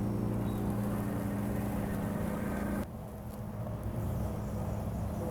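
Robot lawn mower's electric motors running with a steady low hum, which changes abruptly about three seconds in and carries on lower.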